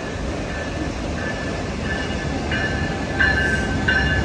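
Passing Amtrak Capitol Corridor train led by Caltrans Siemens Charger locomotive 2104, with the locomotive bell ringing in even strokes about every two-thirds of a second and growing louder. A heavier rumble sets in about three seconds in as the locomotive rolls past close by.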